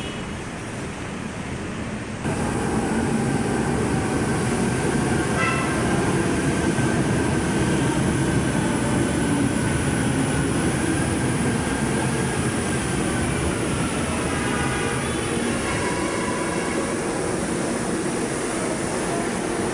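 Metro train running on its rails with a steady rumble. It gets louder about two seconds in, and a faint whine falls in pitch partway through.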